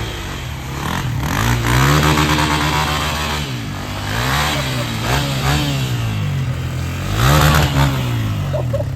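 Dirt bike engine revving hard, its pitch climbing and falling off several times as the throttle is worked.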